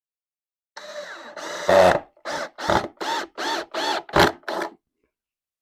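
Power drill driving a screw into wood. It runs for about a second, then pulses in seven short bursts about three a second, each rising and falling in pitch as the trigger is squeezed and let go, and stops about three-quarters of the way through.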